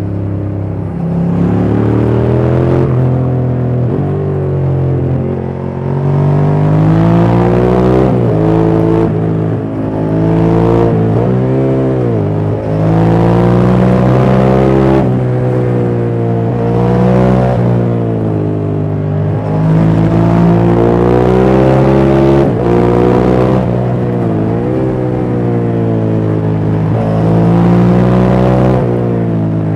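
2004 Ducati Monster 620's air-cooled L-twin, breathing through a Giannelli exhaust, ridden hard: the engine note climbs under acceleration, drops sharply as the throttle is closed or a gear is changed, then climbs again, over and over.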